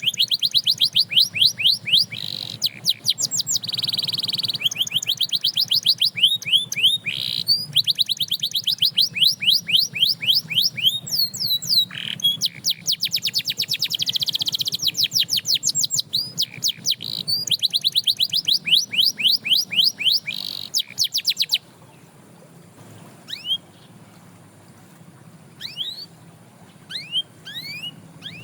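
Canary singing: fast trills of repeated high, downward-sweeping notes, phrase after phrase. The song stops about three-quarters of the way in, leaving a few single chirps near the end.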